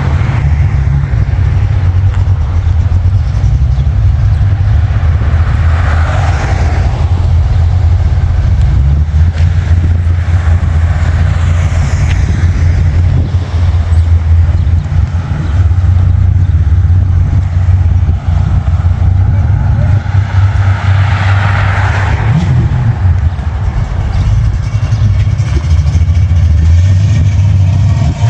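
Deep, loud exhaust rumble of a hot rod engine running close by, with a couple of brief swells.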